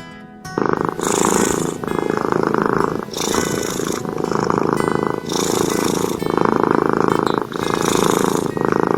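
Domestic cat purring loudly close to the microphone, in steady swells of about one a second as it breathes in and out. It starts about half a second in.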